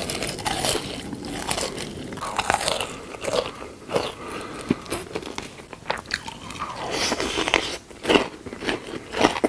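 Close-miked eating sounds: repeated crisp crunching bites and chewing, with sharp crunches scattered throughout.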